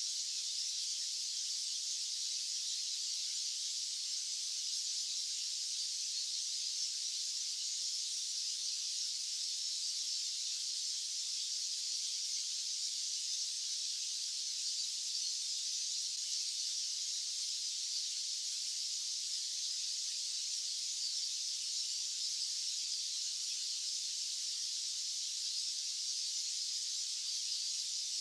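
Steady white-noise hiss, sitting high with no low rumble and not changing at all.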